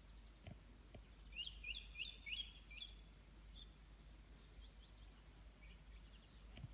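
Faint birdsong: a quick run of about six short, high chirping notes between one and a half and three seconds in, then fainter scattered notes, over a steady low hum.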